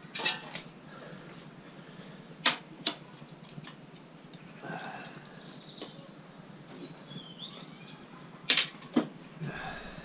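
Sharp metallic clicks and knocks of hand tools working on scrap metal: one just after the start, two about two and a half seconds in, and a louder pair near the end.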